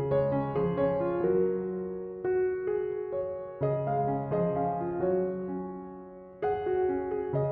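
Soft piano music: gentle chords and melody notes struck and left to ring, in unhurried phrases, with a brief dip before a new phrase near the end.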